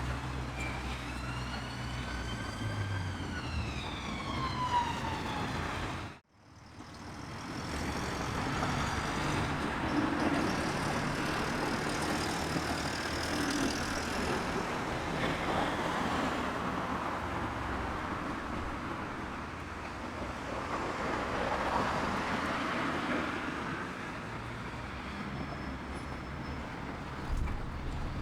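A distant emergency-vehicle siren wailing, its pitch sliding up and then down over the first few seconds. After a sudden break, a steady hum of town traffic follows.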